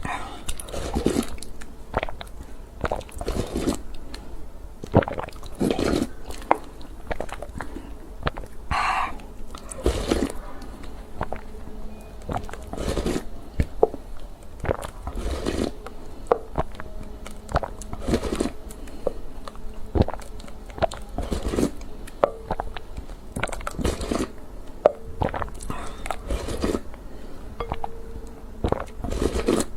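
Close-miked eating sounds: a person chewing and biting into food, with irregular crunches and wet mouth clicks, some louder bites scattered throughout.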